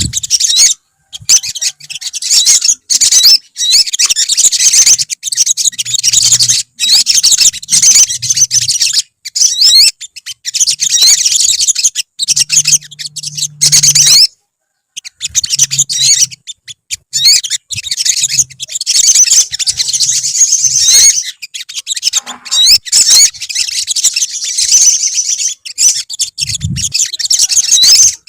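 Several olive-backed sunbirds singing together: rapid, high, thin chirps and trills, nearly continuous, broken by a few short pauses.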